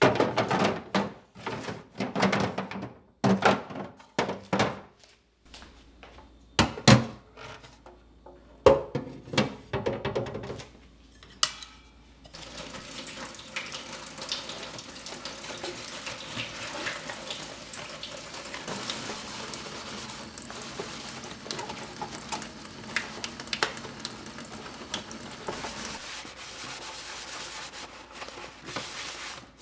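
Hard kitchen items clattering and knocking for about twelve seconds, then a steady rush of water running from a kitchen tap into the sink, with light knocks over it.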